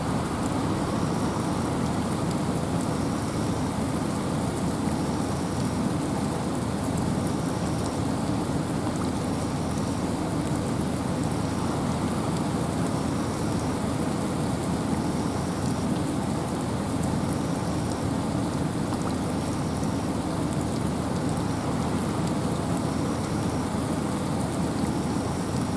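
Steady rain and wind in a forest: an even, unbroken hiss with a strong low rumble, and a faint high pulse repeating about every two seconds.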